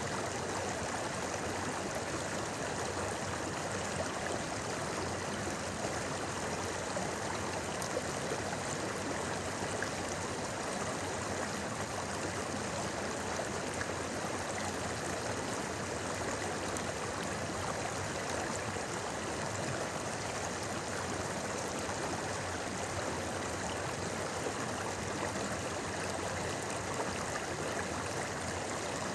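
Shallow river or stream flowing steadily over rocks, a continuous even babble of running water.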